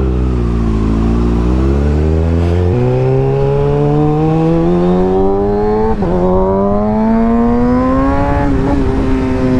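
Sport motorcycle accelerating through the gears: the engine note climbs, drops back at gear changes about three and six seconds in, climbs again, then levels off near the end. Wind rush on the helmet-mounted mic runs beneath it.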